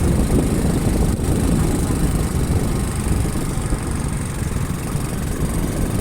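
Motorcycle engine running on the move, with a steady low rumble and no distinct events.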